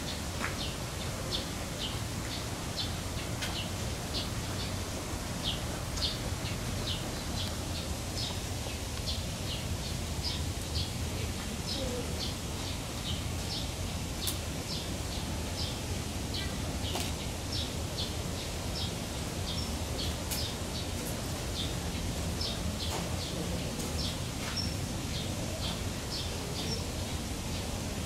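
A bird chirping over and over, short high chirps about twice a second, over a steady low background hum.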